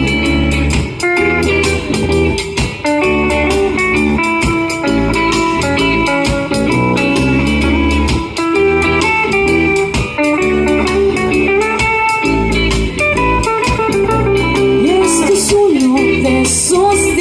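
Rock band playing live in an instrumental passage between sung verses: guitar lines over bass and drums, with cymbal crashes near the end.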